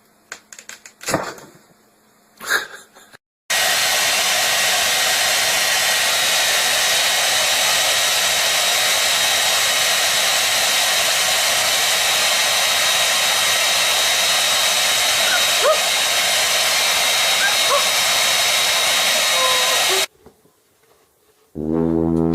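Steady, loud rushing of an electric blower motor with a thin whine over it. It cuts in suddenly about three and a half seconds in and stops abruptly near the end. A few short knocks come before it.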